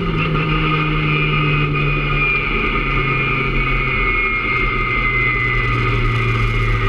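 Peugeot 106 Rallye rally car's four-cylinder engine heard from inside the cabin, its note falling slowly and evenly for the first few seconds, then holding steady at a lower pitch.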